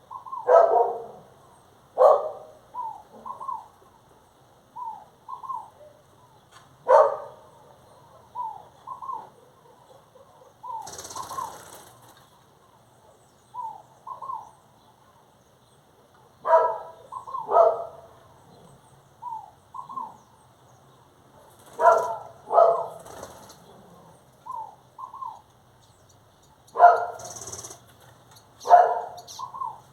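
Birds calling: short curved notes repeating about once a second, with louder, harsher calls every few seconds and brief rustles around the middle.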